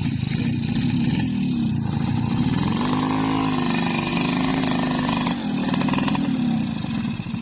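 Motorcycle engine revving hard, its pitch rising and falling several times.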